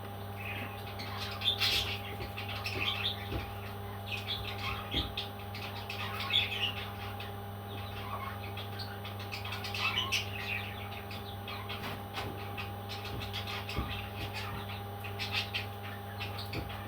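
Pet parrot chirping and squawking in short, scattered calls, over a steady low hum.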